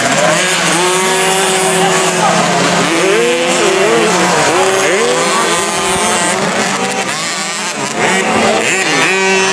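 Several 50cc two-stroke motocross bikes racing, their engine notes revving up and down and overlapping as they accelerate and back off, over a steady low hum.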